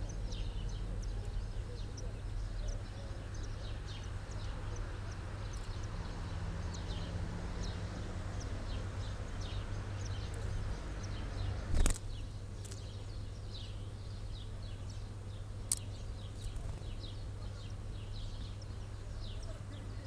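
Small birds chirping: many short, high, falling chirps scattered throughout over a steady low hum. A sharp click about twelve seconds in is the loudest sound, with a smaller one near sixteen seconds.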